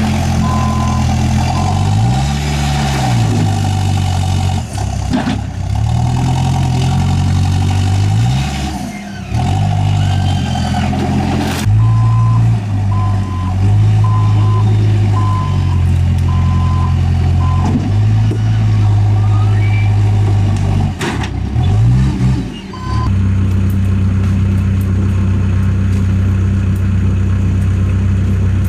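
Heavy work vehicle's engine running and revving up and down several times, with its reversing alarm beeping in even pulses at the start and through a long stretch in the middle.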